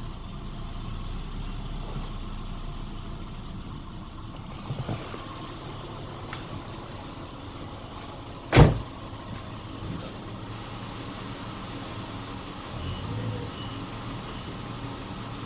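Subaru Forester flat-four engine idling steadily. A single sharp knock a little past halfway is the loudest sound, with a couple of faint clicks a few seconds before it.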